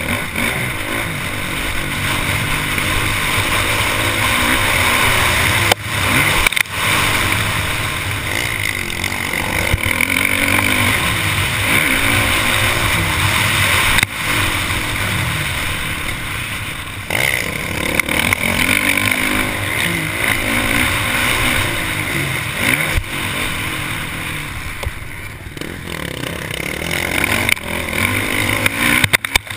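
Honda motocross bike's engine revving up and down hard as the rider works the throttle and gears around the track, with a few sudden brief cuts in the engine note. Heard from a camera mounted on the bike, so wind rush and chassis rattle run under the engine.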